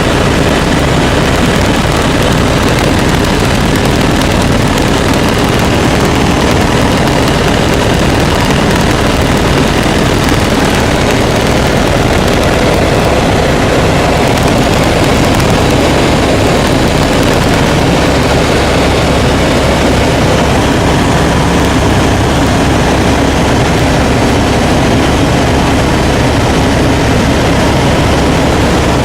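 Helicopter engine and rotor running, a loud, steady, unbroken drone.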